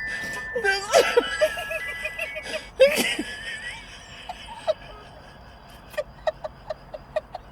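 Stifled laughter: short, quick snickers, about three a second, through the second half, after a few muffled voice sounds near the start.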